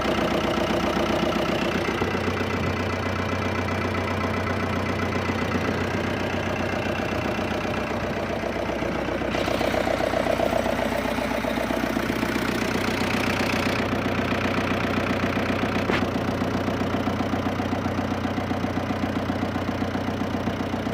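Fiat 640 tractor's four-cylinder diesel engine running steadily, with a slight rise in level about ten seconds in.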